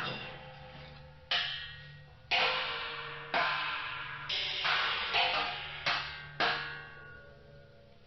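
Percussion strikes, each ringing and slowly dying away, coming about once a second with a few quicker hits near the middle, over a steady low hum.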